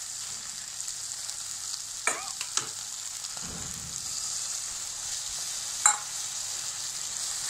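Chicken kebabs in tomato-onion gravy sizzling steadily in a metal kadai, with a wooden spatula scraping and knocking against the pan a few times, the sharpest knock near the end. Partway through, the reserved kebab-boiling stock is poured into the pan.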